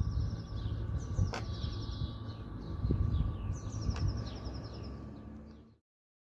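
A small songbird singing the same quick phrase three times, a run of rapid notes stepping down in pitch, over a steady low rumble. The sound fades and then cuts off abruptly near the end.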